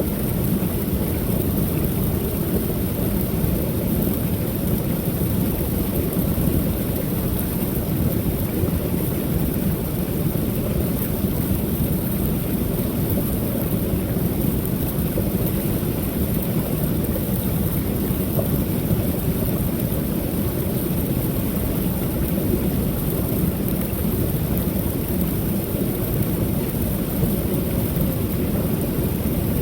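Creek waterfall: a steady, even wash of falling water, mostly deep in tone, with no change in level.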